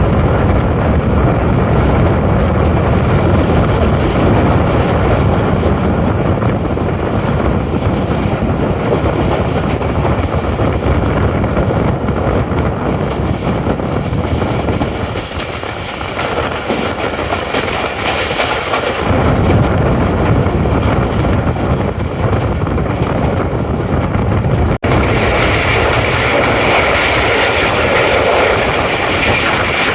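Train running on the rails: a loud, steady rumble of wheels and carriages. About 25 s in there is a sudden break, and after it the running noise is brighter.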